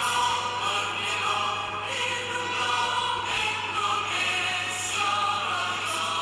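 Choral music: several voices singing sustained notes over an accompaniment, played as a TV channel's sign-on music, with a steady low hum beneath.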